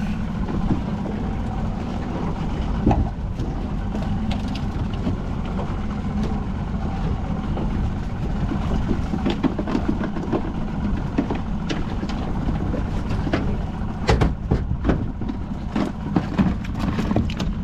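A boat's engine idling steadily, with scattered knocks and clatter that come more often near the end.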